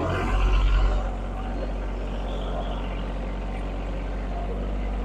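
An engine running steadily at low speed, with a brief louder surge in the first second before it settles.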